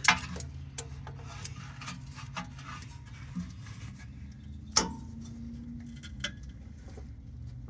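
Hand tools clicking, tapping and scraping on metal while working at a tight part under the truck during an oil change. There is a sharper knock about five seconds in, over a steady low hum.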